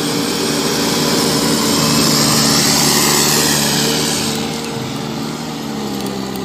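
A JCB backhoe loader's diesel engine runs steadily under load while the machine pushes through deep snow, with a dense hiss over the engine note. The engine pitch dips slightly near the end.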